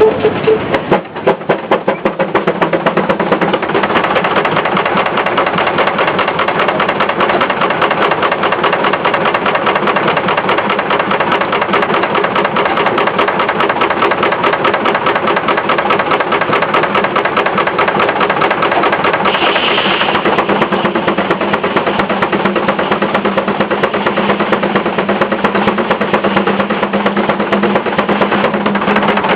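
Case steam traction engine running belt-driven sawmill machinery. Its exhaust beats come loud and separate for the first few seconds, then close up into a steady, rapid beat as the engine picks up speed. A brief higher tone sounds about two-thirds of the way through.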